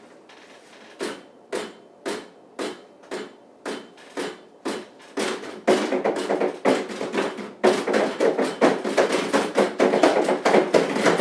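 Repeated sharp knocks, about two a second, speeding up into a fast, dense run of louder strikes from about five seconds in.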